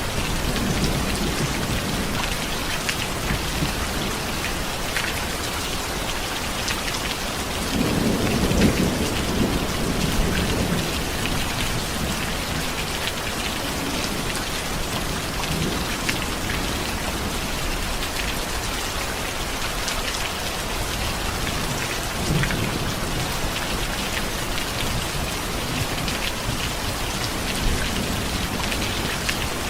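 Steady rain falling, with a low roll of thunder swelling up about eight seconds in and fading over a couple of seconds.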